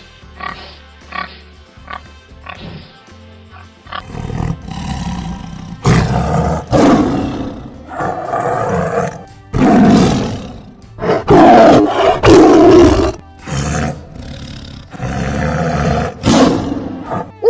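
An animal grunting in short pulses, then, from about four seconds in, a large animal roaring loudly, around eight long roars in a row.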